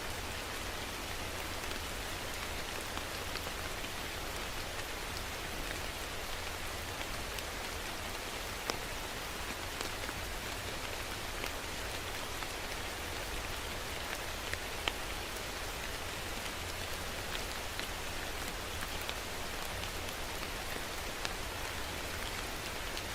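Steady rain falling, an even hiss with scattered individual drops ticking on a surface. A couple of single drops land louder, about nine and fifteen seconds in.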